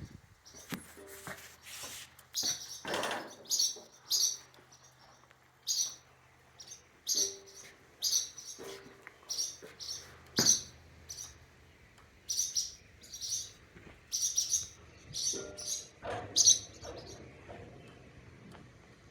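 Barn swallows giving short, sharp chirps, one after another about once or twice a second, with a couple of faint knocks among them.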